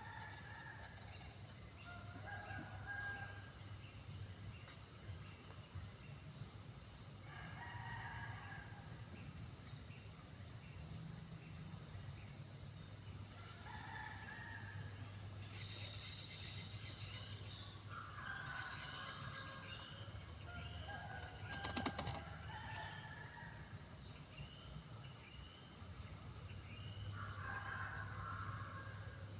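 Distant rooster crowing about five times over a steady high drone of insects, with small birds chirping in between and one sharp click near the end.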